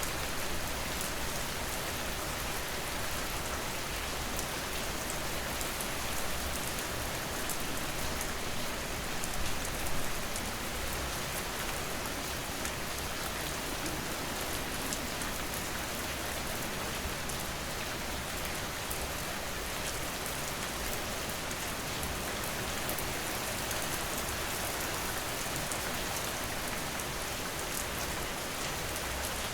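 Steady heavy rain falling on a surface, a dense even hiss with fine patter of individual drops.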